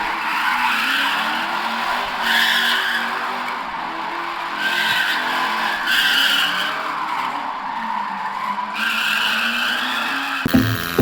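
Car engine running at high revs with tyres squealing in repeated stretches, as in a burnout. Music starts abruptly near the end.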